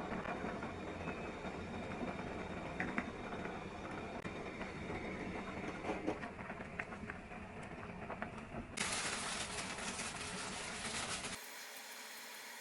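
A steady low rumble like the inside of a moving vehicle, with a few small clicks. It changes abruptly twice near the end, the second time dropping to a quieter hiss.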